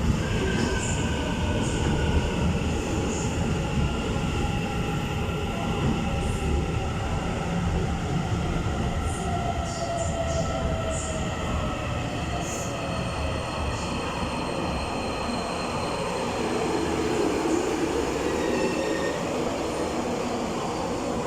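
Taiwan Railway EMU900 electric commuter train pulling into a station and slowing. Its traction motors whine in several tones that fall steadily in pitch as it brakes, over a constant rumble of wheels on rail.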